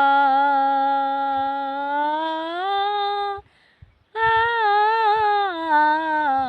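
An elderly woman singing alone without words: a long held 'aa' note that rises in pitch near its end, then a short breath and a second wordless phrase whose pitch wavers up and down.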